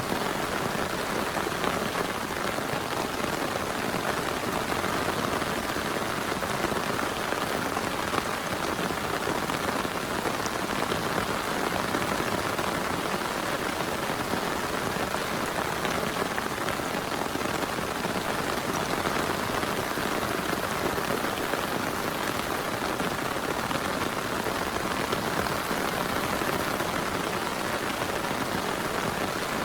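Heavy rain falling steadily: an even, dense hiss of drops that does not let up.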